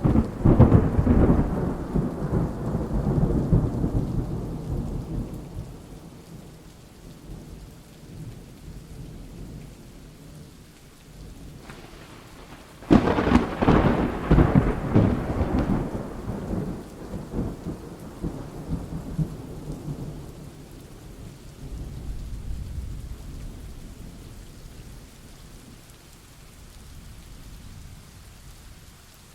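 Thunderstorm with steady rain. Thunder cracks loudly right at the start and rolls off into a rumble over several seconds; a second clap about thirteen seconds in rolls on longer, swelling once more before it fades.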